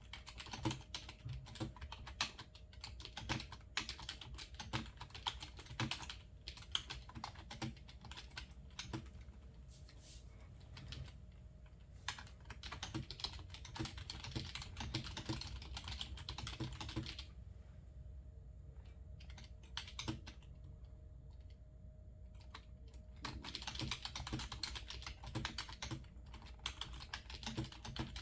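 Typing on a computer keyboard: runs of quick key clicks, with a lull of only scattered clicks a little past the middle before the typing picks up again.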